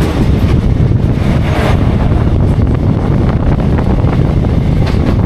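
Loud, steady rumble of express trains running at speed, with wind buffeting the microphone, as the Howrah–Raxaul Express passes the Gonda–Asansol Express on the adjacent track.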